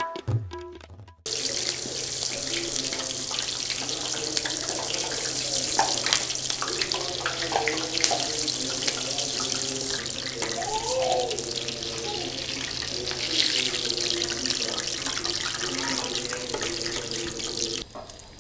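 Chicken chapli kababs shallow-frying in hot oil: a steady sizzle with dense fine crackling. It starts abruptly about a second in and cuts off just before the end.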